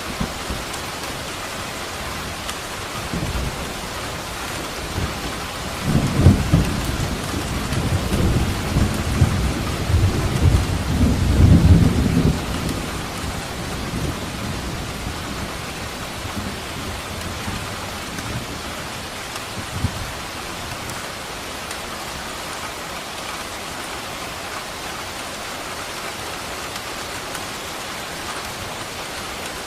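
Steady rain falling, with a roll of thunder rumbling low from about six seconds in for some six seconds, and a brief faint thud of thunder near twenty seconds.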